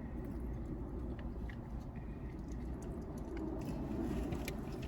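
Quiet chewing and eating, with scattered small clicks of food and packaging, over a steady low hum.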